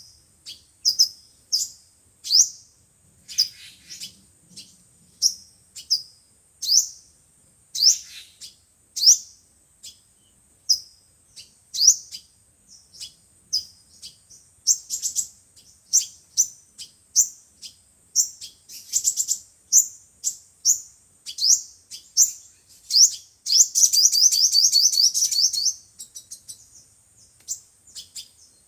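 Sunbirds calling: a steady series of short, sharp, high chirps, one or two a second, with a fast rapid trill about three-quarters of the way through. It is a sunbird call recording of the kind played through a loudspeaker to lure wild sunbirds.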